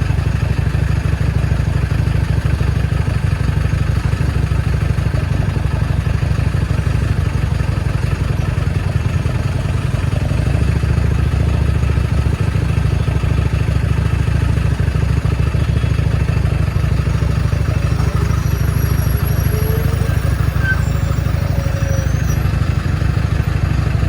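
Steady low rumble of wind buffeting a phone's microphone, mixed with motorcycle engine and road noise, while riding along a highway.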